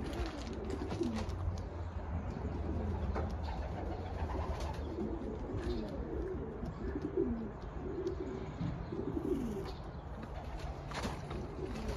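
Several racing pigeons cooing, short low calls overlapping one another without a break, with a few light clicks among them.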